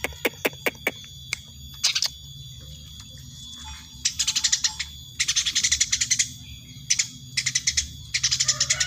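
Eurasian tree sparrow chirping in rapid bouts of high, sharp chirps, each bout about a second long, with short pauses between them.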